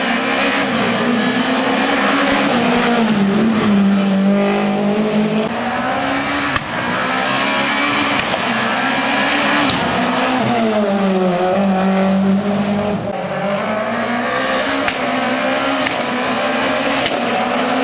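Rally car engine revving hard, its pitch climbing and dropping again and again as the driver changes gear and lifts off for corners.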